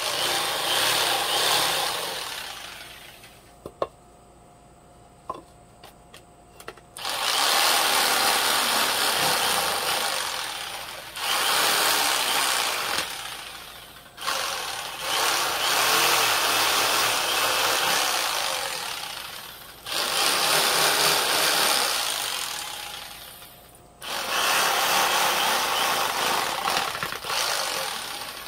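Electric jigsaw cutting through a pine board in runs of a few seconds, stopping and starting again about six times. Near the start there is a pause of a few seconds with only a few light clicks.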